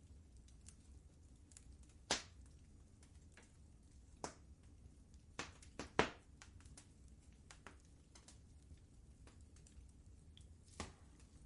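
Wood fire crackling: scattered sharp pops and snaps, the loudest about six seconds in, over a low steady rumble.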